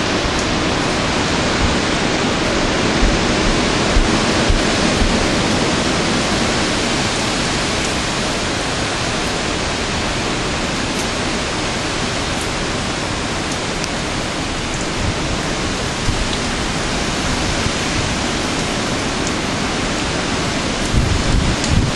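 Hurricane wind as a steady rushing roar, with gusts buffeting the microphone a few times, strongest near the end.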